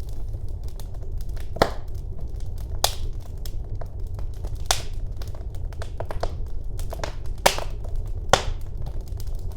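Wood fire crackling in a fireplace: a low steady rumble of the flames under many small snaps, with five louder pops scattered through.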